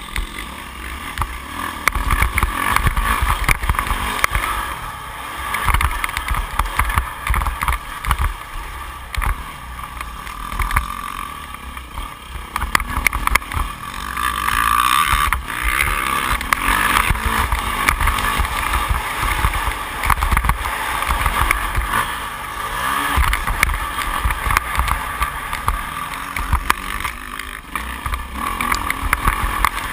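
2008 Yamaha YZ450F's four-stroke single-cylinder engine, heard from an on-bike GoPro HD, revving up and backing off repeatedly as the bike is ridden around a motocross track.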